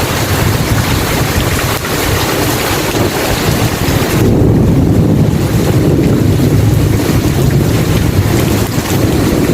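Rain falling steadily as an even hiss. About four seconds in, a low rumble of thunder swells and goes on rolling.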